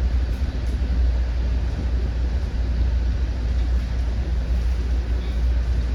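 Commuter train running along the track, heard from inside a passenger car: a steady low rumble with rolling noise.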